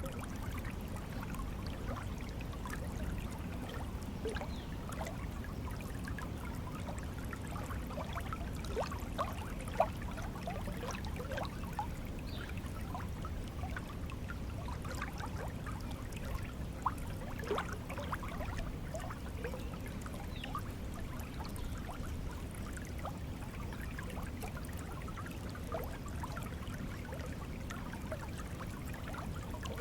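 Small stream of water flowing steadily, a low rush with constant trickling and bubbling.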